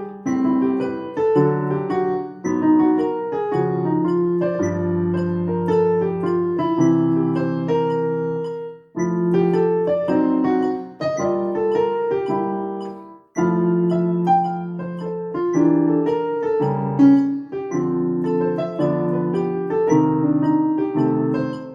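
Piano playing a jazz blues in B flat, chords under a melody, with brief breaks about nine and thirteen seconds in. A metronome beeps faintly and evenly at 110 beats per minute.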